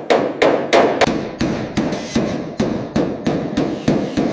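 Hammer striking metal in a steady rhythm, about three blows a second, each blow ringing briefly.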